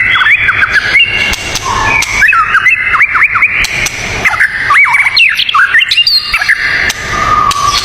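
Songbirds singing: a busy run of quick, whistled notes that swoop up and down, several overlapping, over a steady background hiss.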